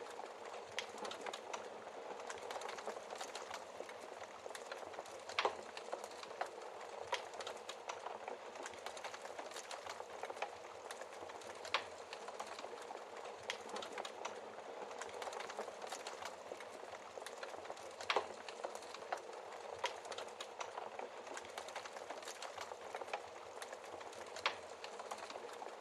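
Wood fire burning in a fireplace: a steady hiss with irregular crackles and pops throughout, a few sharper pops standing out, the loudest about eighteen seconds in.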